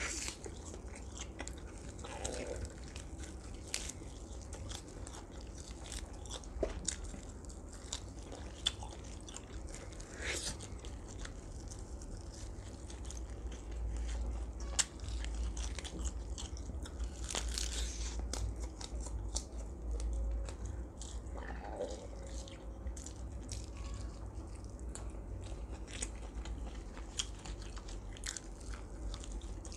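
Close-miked eating sounds of a person biting and chewing roasted duck meat and skin: wet mouth smacks and many scattered sharp clicks, over a faint steady low hum.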